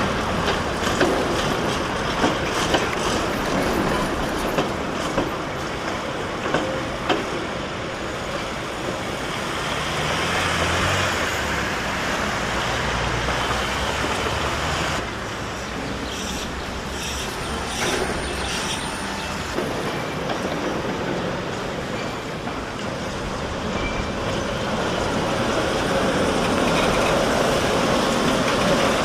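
Tram running on street track, with a series of sharp wheel clicks over rail joints in the first seven seconds or so, then a steadier rolling noise that grows louder near the end.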